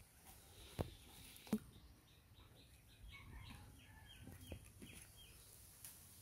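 Two sharp knocks in the first two seconds, then a faint run of short chirping bird calls, several a second, for a few seconds.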